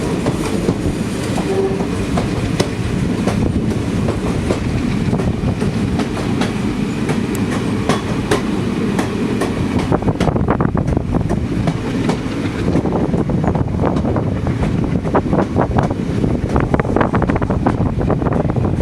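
Passenger train running along the track, a steady rumble with the wheels clicking over rail joints, the clicks coming thicker in the second half.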